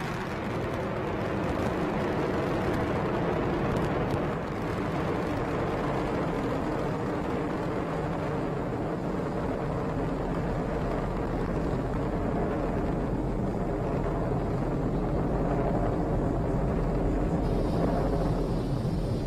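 Falcon 9 first stage's nine Merlin 1D engines firing during ascent: a steady, dense rumbling noise whose deepest bass grows stronger about halfway through and again near the end.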